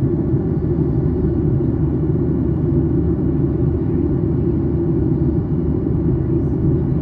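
Steady low cabin noise of a Boeing 737-800 in descent, heard from inside the passenger cabin: engine and airflow noise with no changes.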